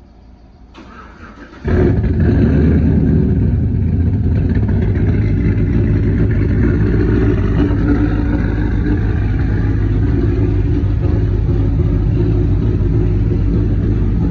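A pickup truck's engine starting up, catching suddenly a couple of seconds in, then running steadily at a loud idle.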